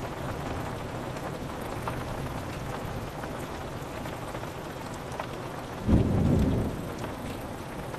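Steady rain falling on a window, with a short, loud clap of thunder just before six seconds in that rumbles for under a second.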